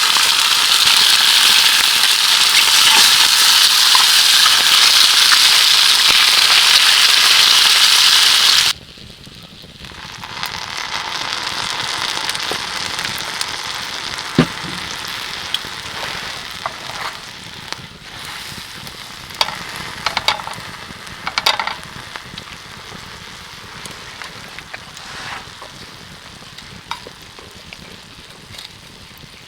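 Food frying and sizzling in a hot pan: a loud, steady sizzle that cuts off suddenly about nine seconds in, then a quieter sizzle that builds and slowly dies down, with scattered pops and crackles.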